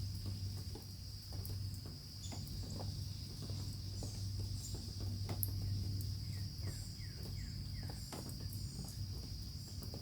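Steady, high-pitched insect chorus over a low steady hum, with scattered light clicks and a short run of falling bird notes about seven seconds in.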